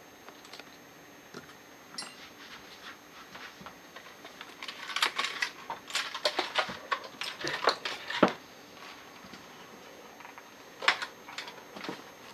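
Small metal parts and tools of a TUSA scuba regulator first stage clicking and clinking as it is taken apart, with a busy run of clinks in the middle and a louder knock near the end of that run.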